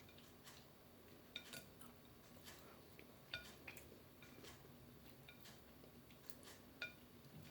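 Faint scattered clinks of a fork against a plate while eating, about half a dozen short ringing taps.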